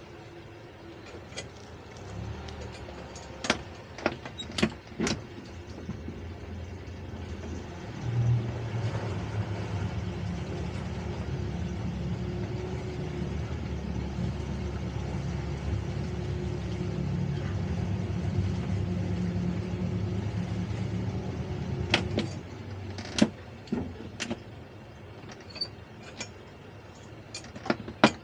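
A motor running with a steady low hum. It grows louder about 8 seconds in and cuts off suddenly a few seconds from the end, with scattered clicks and knocks around it.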